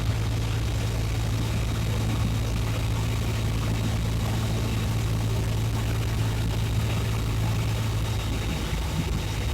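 Cessna 172's piston engine and propeller heard from inside the cabin, a steady, even drone.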